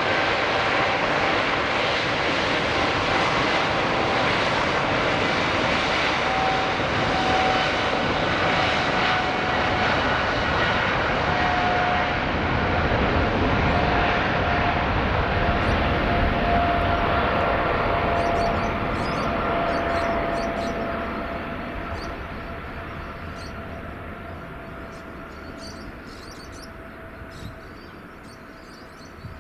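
Boeing 777-300ER's twin GE90 turbofans at takeoff power: a loud, steady jet roar with a high fan tone that slowly drops in pitch. From about 19 seconds in, the roar fades away as the aircraft departs.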